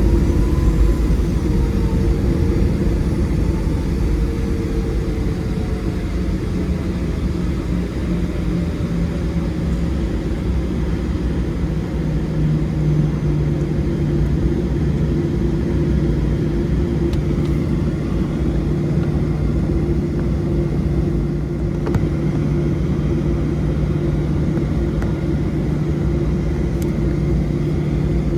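Cabin noise of a Boeing 737-700 airliner in flight, heard from a window seat: the steady drone of its CFM56-7B jet engines and airflow, with a constant low hum. About twelve seconds in, one of the hum tones settles a little lower in pitch.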